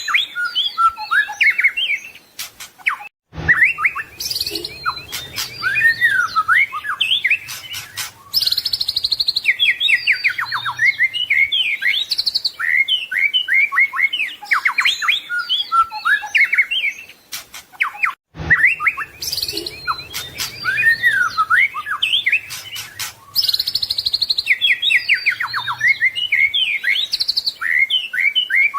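White-rumped shama (murai batu) singing a fast, varied song of whistles, trills and chattering phrases, the kind of mimicry-rich song used as a training recording. The same stretch of song repeats about every fifteen seconds, each repeat starting after a brief dropout.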